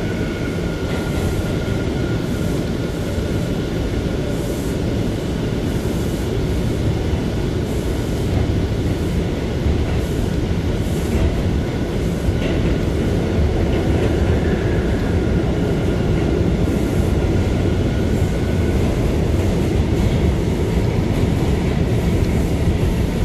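Interior ride noise of an R179 subway car running at speed through a tunnel: a steady rumble of wheels and motors, with a faint steady whine.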